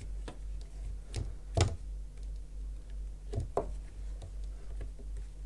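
Scattered small clicks and taps of a crochet hook and yarn being worked through stitches on a wooden frame, the clearest about a second and a half in and again about three and a half seconds in, over a steady low hum.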